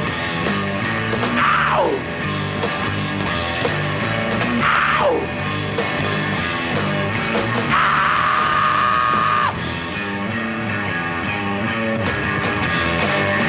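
Rock band playing a live closing section with loud guitars and drums. A few sharp downward swoops stand out over the band, and a single high note is held for about a second and a half around eight seconds in.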